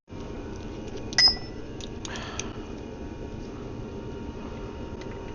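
A single sharp metallic clink with a short ring about a second in, as of a steel hand tool or socket knocking against metal, followed by a softer scrape and a few faint ticks over a steady background hiss.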